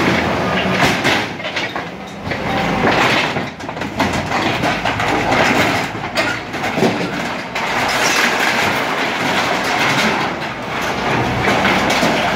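A rotted metal container being broken up: loud, continuous metal crunching and clanking, with repeated knocks throughout.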